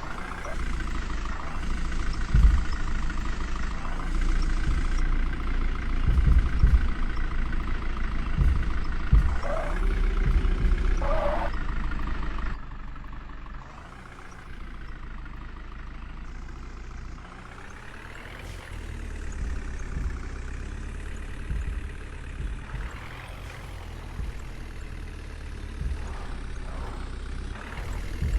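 Heavy diesel vehicle engine running, with strong low thumps through the first half. The sound drops in level about twelve seconds in, then the engine pitch rises and falls several times.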